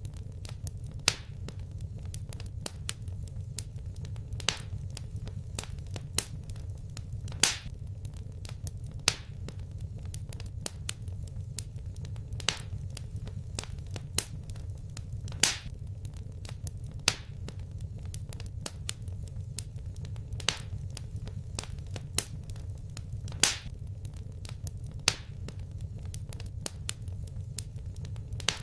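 Wood fire crackling in a fireplace: a stream of small sharp pops, with a louder pop every second or two, over a steady low rumble.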